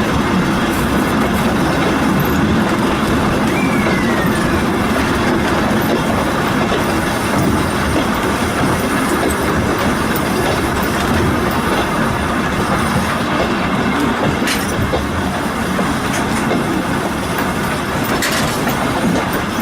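Volk's Electric Railway car running along its track: a steady rumble of wheels on rail, with a short falling whine about four seconds in and a couple of sharp clicks later on.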